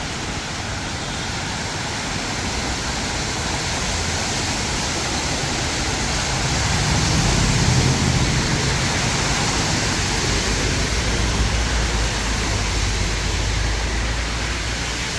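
A vehicle's low engine rumble swells about halfway through and carries on more faintly, over a steady rushing noise of water on a flooded road.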